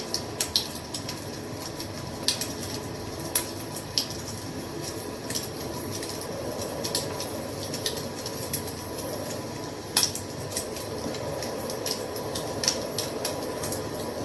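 A fire crackling: a steady low rush with irregular sharp pops and snaps, several a second at times, the loudest about ten seconds in.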